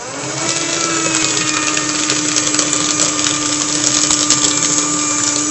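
Electric paper shredder starting up and running steadily as it shreds paper: a steady motor hum under a dense, rough cutting noise.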